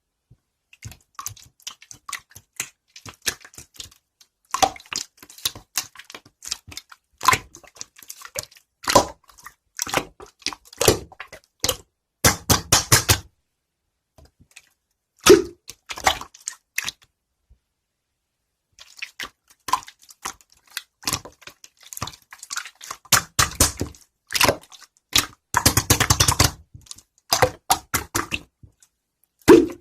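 Irregular clicking and tapping, with two short bursts of fast rattling clicks, one near the middle and one near the end, and a pause of about two seconds after the middle.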